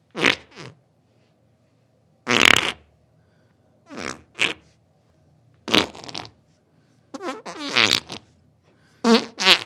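A series of about seven separate farts, short and long, with gaps of a second or so between them; the later ones have a buzzing pitch that wavers up and down.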